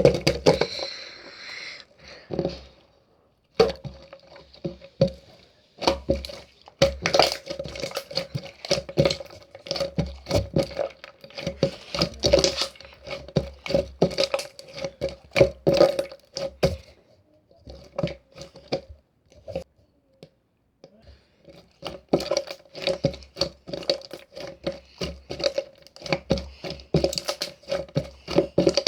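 Dense crackling and crunching: many sharp, irregular clicks in quick succession, with a brief pause a little over two-thirds of the way through.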